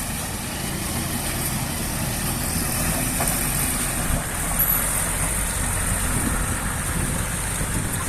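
Loaded truck's engine running steadily, with a low, even drone.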